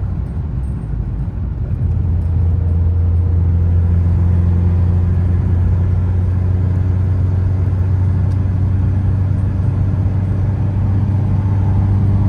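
Volkswagen Mk4 Golf at highway speed, heard from inside the car: a steady low engine drone with tyre and road noise as it climbs from about 60 to 70 mph.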